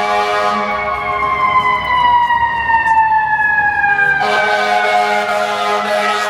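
Emergency vehicle siren wailing, its pitch falling slowly over about four seconds and then starting a new fall from higher up, over a steady low hum.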